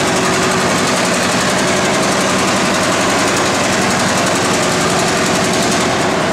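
Antique farm tractor engine running loudly and steadily.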